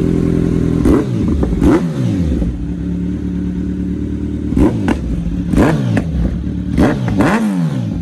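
Superbike with an aftermarket Akrapovic exhaust idling and being blipped on the throttle: about six sharp revs, each dropping quickly back to a steady idle.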